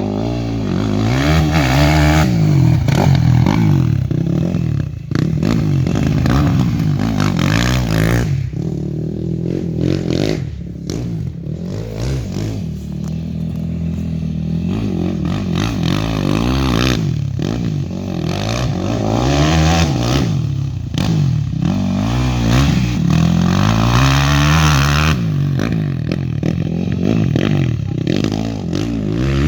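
Quad bike engine revving hard and easing off again and again as it is ridden round a motocross track, its pitch climbing and falling with each throttle opening.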